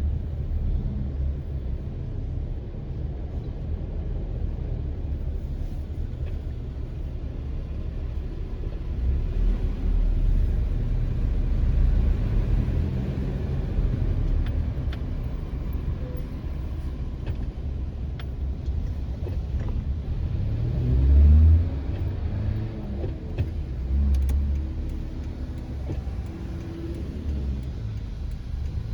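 Steady low rumble of a car on the road, swelling louder twice in the second half.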